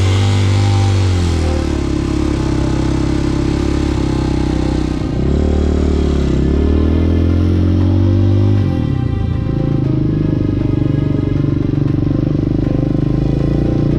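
Hawk 250 dual-sport motorcycle's single-cylinder engine running just after starting, revved up and let back down twice, once in the first second and a half and again from about five to eight and a half seconds in, then idling steadily while it warms up.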